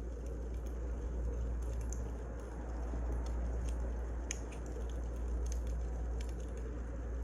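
Wood fire burning: a steady low rumble of flames with scattered sharp crackles and pops of firewood.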